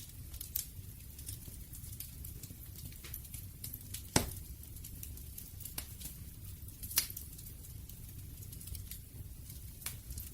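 Wood fire burning with a low steady rumble and scattered crackles and pops; the sharpest pops come about four and seven seconds in.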